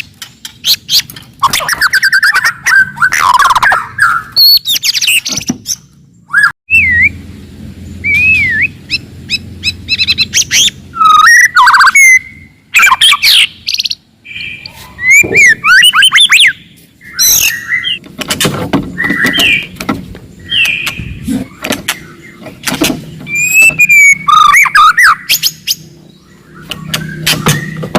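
White-rumped shama singing loudly and aggressively: a run of varied phrases of clear rising and falling whistles, fast trills and sharp clicking notes, with short pauses between phrases.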